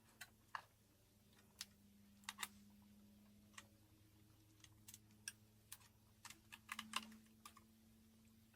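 Faint, irregular light clicks and taps, about fifteen of them, the loudest cluster near the end, over a low steady hum.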